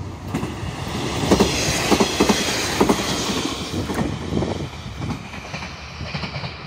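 A red KiHa 40-series diesel railcar passing on a curve, its wheels clacking over the rail joints in a run of beats. A high metallic wheel squeal rings over the clacks from the curve. Both grow louder as it passes, then fade as it moves away.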